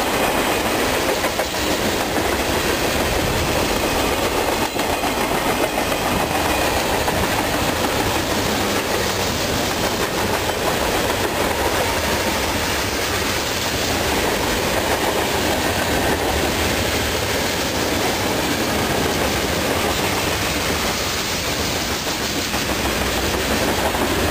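Freight cars of a CSX mixed freight train, tank cars and boxcars, rolling past: a steady, loud noise of steel wheels running on the rails.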